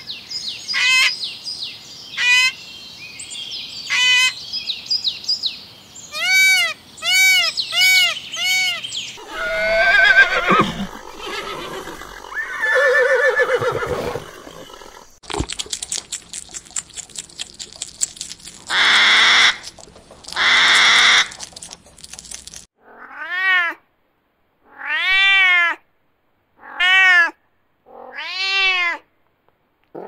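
A series of different animal calls and noises, ending with a kitten meowing four times, each meow under a second long and about two seconds apart.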